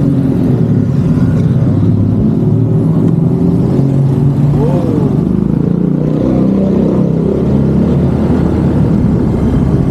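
Road vehicle engine running steadily in street traffic, with a brief rise and fall in pitch about halfway through.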